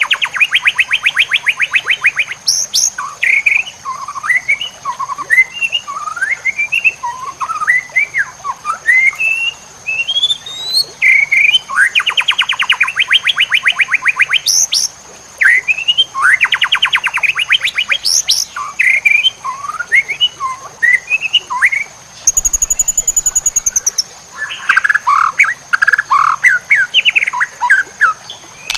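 White-rumped shama (murai batu) singing a varied, mimicry-filled song: fast trills of rapidly repeated notes, rising and falling whistled phrases and short sharp notes, with a harsher buzzing call about two-thirds of the way through. A steady thin high tone runs underneath.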